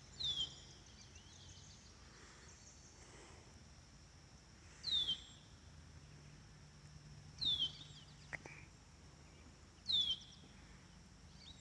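A bird repeating a short, high call that slurs downward, four times, mostly about two and a half seconds apart, over a faint steady high hiss.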